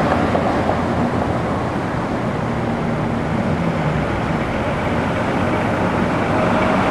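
Steady car and road traffic noise, with no single event standing out.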